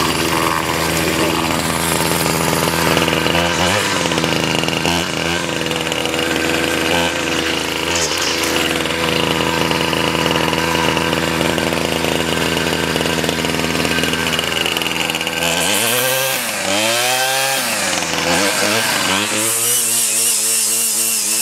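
Ryobi 775r two-stroke string trimmer engine running steadily just after a cold start, then revved up and down several times in the last few seconds.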